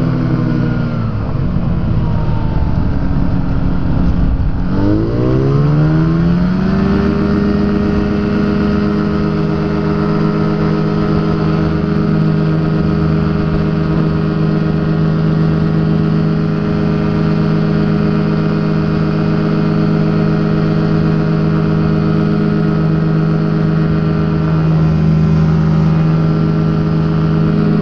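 Rotax two-stroke engine of a Quad City Challenger ultralight. Its pitch wavers at first, dips about four seconds in, then climbs over a couple of seconds to a steady high-rpm drone that holds: the throttle opened to power for the climb-out of a touch-and-go.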